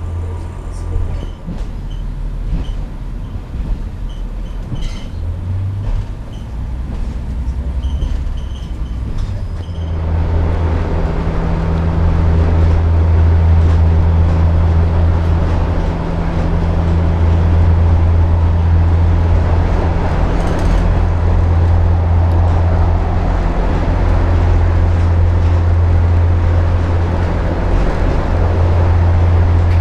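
Passenger train running: a steady low rumble that gets louder about ten seconds in and then holds.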